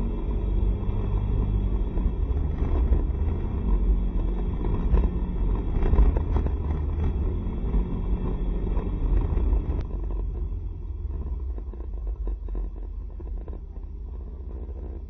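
Low rumble of wind and road noise over a small single-cylinder Honda SCR110 scooter engine while riding. It gets quieter from about ten seconds in.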